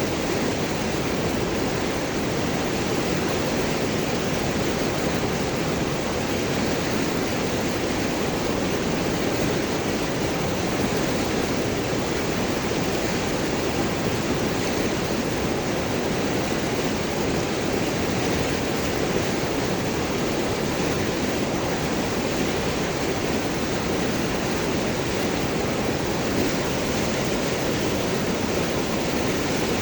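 River water flowing and gurgling over and around large rocks, a steady, unchanging rush.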